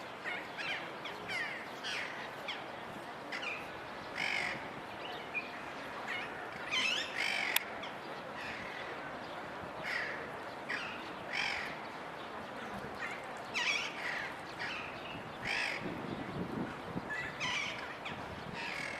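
Green parakeets giving short, harsh screeching calls, one every second or so, over steady background noise.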